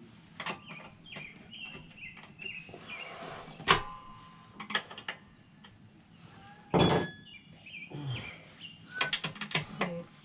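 Metal tools and motorcycle parts being handled: scattered clicks and knocks, with a ringing metallic clink a little before halfway and a louder clang about two-thirds through that rings briefly. Birds chirp in the background.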